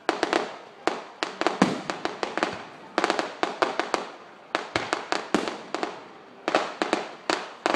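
Aerial fireworks exploding in quick, irregular volleys: many sharp bangs a second in clusters, each with a brief echo.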